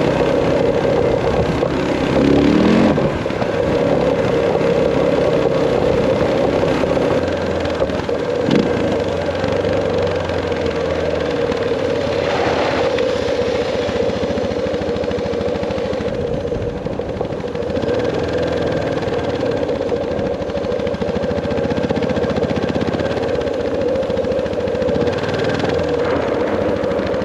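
Suzuki DR650's single-cylinder four-stroke engine running steadily under way, with only small changes in note.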